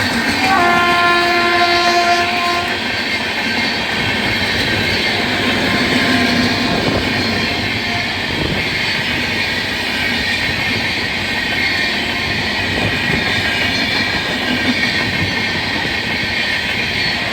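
An express train of LHB coaches passing close by at high speed, with a steady loud rumble of wheels on rail and occasional clacks over rail joints. The locomotive's horn sounds one long blast lasting about two seconds, starting about half a second in.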